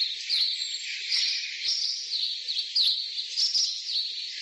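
Bird calls: high chirping notes repeated about twice a second, starting abruptly.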